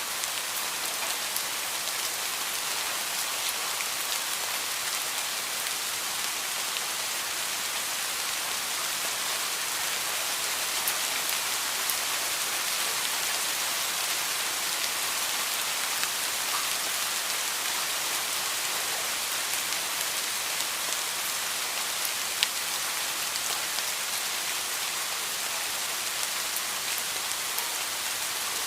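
Heavy rain falling steadily: an even hiss with many sharp little drop ticks scattered through it.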